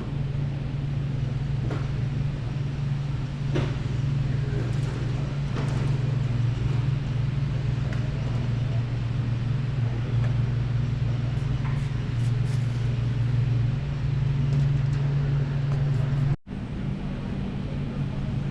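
A steady low hum with scattered faint clicks and knocks; the sound cuts out for an instant near the end.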